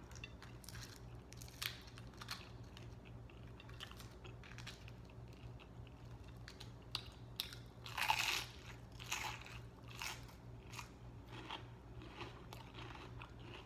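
Close-up chewing of food with scattered crisp crunches, thickest about eight to ten seconds in, over a faint steady low hum.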